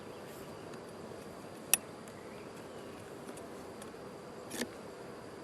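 Honey bees humming steadily around a hive, with a sharp click about two seconds in and a softer one near the end.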